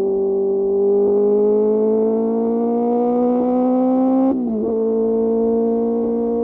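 QJ Motor SRK600 inline-four engine through an SC-Project exhaust, pulling under steady throttle with the revs climbing slowly. About four seconds in the pitch drops suddenly in a quick upshift, then holds steady.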